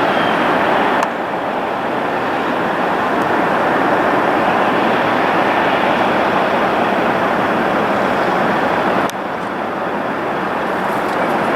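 Jet airliner engine noise, a steady rushing sound with no distinct tones, dropping suddenly in level about a second in and again near the end.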